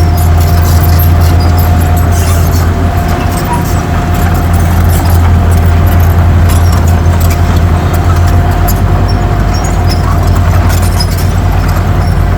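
Heavy earthmoving machine's diesel engine running steadily at an even pitch, with a thin steady whine above it and scattered light metallic clicks.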